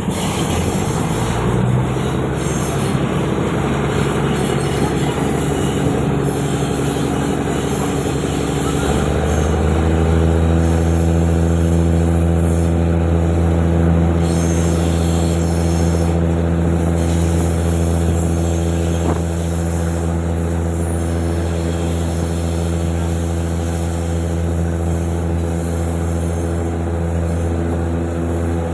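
Diesel train engine running, rough and uneven at first; about nine seconds in, its note rises and settles into a steady drone.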